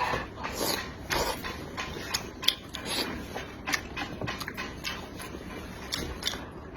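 Close-miked chewing and wet smacking of a mouthful of braised pork belly, with irregular clicks and slurps a few times a second.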